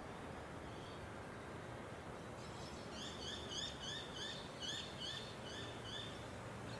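A bird calling a quick run of about a dozen short, arched notes, about three a second, starting a couple of seconds in and stopping near the end, over steady background noise.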